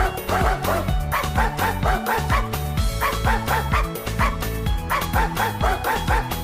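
A dog yipping in quick runs of short, high yelps over background music with a steady beat.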